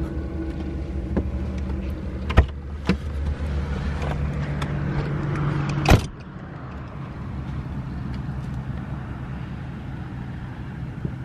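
Land Rover Defender's engine running, heard from inside the cabin as a steady hum, with a few sharp clicks about two and a half to three seconds in. About six seconds in the sound cuts to a quieter, steady low engine hum.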